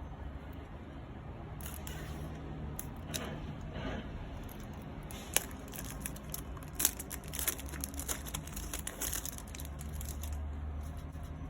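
Plastic wrapping on a CD crinkling and tearing as it is pulled off, with sharp clicks from the case. The rustling starts about one and a half seconds in and stops about a second before the end.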